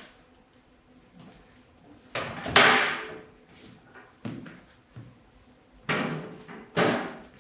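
A series of about six sharp knocks and thumps over some five seconds, each dying away quickly, the second the loudest.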